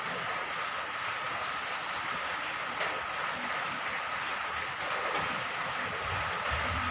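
Steady rain, an even hiss, with a faint steady thin tone running through it and a low rumble near the end.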